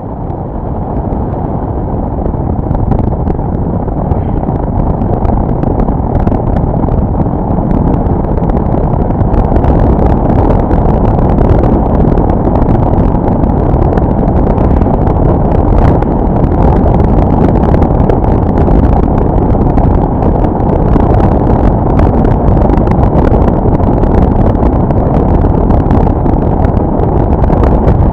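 Steady road and wind rumble from a vehicle driving, picked up on an action camera's microphone. It swells over the first several seconds, then holds even.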